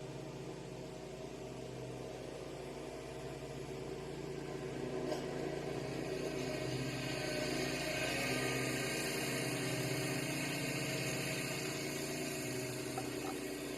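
A steady machine hum with a low drone, like an engine running, growing louder about halfway through and easing off a little toward the end.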